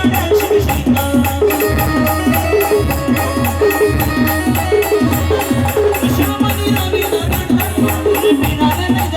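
Band playing an instrumental passage of a folk song: a repeating melody of short notes over a steady drumbeat with rattling percussion.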